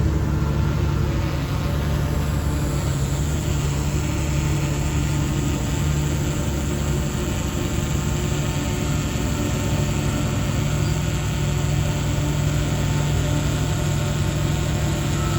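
DH17C3PRO bulldozer's diesel engine running at a steady speed, with an even low drone.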